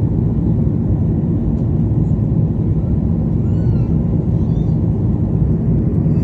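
Steady low cabin rumble inside a Boeing 737-800, the engines and airflow heard from a passenger seat. Two faint short high-pitched calls rise and fall about halfway through.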